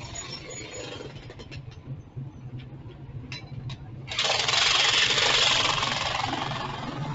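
Motorcycle engine running steadily at low revs, with a few sharp clicks, then a sudden loud hiss about four seconds in that fades away over the next few seconds.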